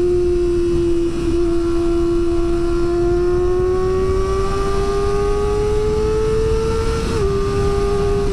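Kawasaki ZX25R's four-cylinder engine running at high revs under load, its pitch climbing slowly and steadily, with a brief dip and break about seven seconds in before it holds steady.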